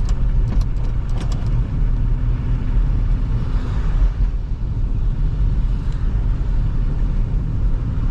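A 2005 Toyota Highlander's tyres running through road slush, heard as a steady low rumble with a hiss of slush that swells about three to four seconds in. A few sharp ticks come in the first second and a half.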